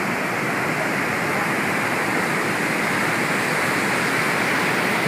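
Floodwater of a swollen river rushing steadily over boulders and gravel.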